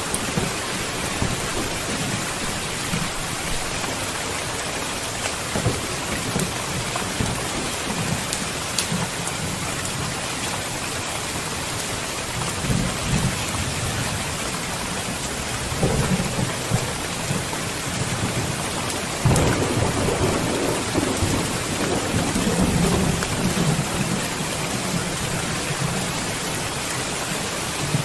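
Steady heavy rain with thunder rumbling low several times. The longest and loudest roll comes about two-thirds of the way through and lasts several seconds.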